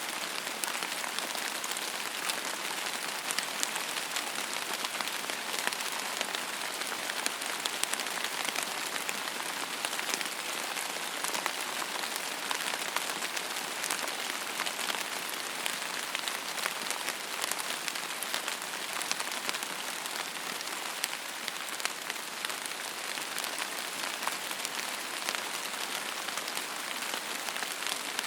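Steady rain falling on a surface: an even hiss with many fine, close-spaced drop ticks.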